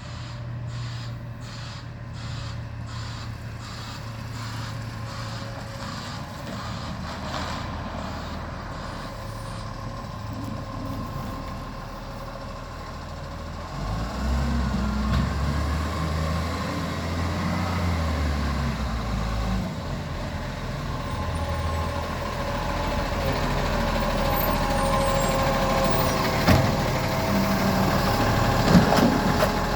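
Garbage truck's diesel engine running. It gets louder and revs up about halfway through, and two sharp short sounds come near the end.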